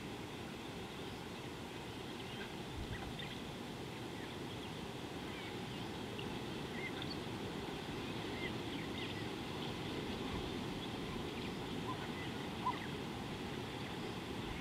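Wild birds chirping and calling in short scattered notes over a steady low background rumble.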